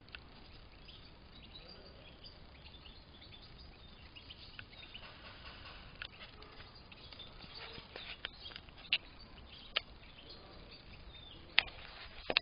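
A flock of European goldfinches twittering with short, high chirps while feeding on seed, with a few sharp clicks and taps in the second half.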